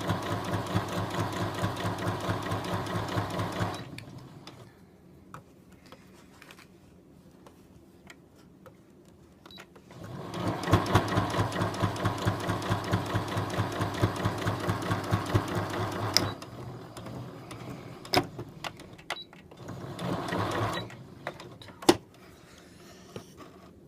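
Brother A39-MM electronic sewing machine stitching in three runs of rapid, even needle strokes: about four seconds at the start, about six seconds in the middle, and a short burst near the end. Between runs come light clicks and taps, with a few sharp clicks late on.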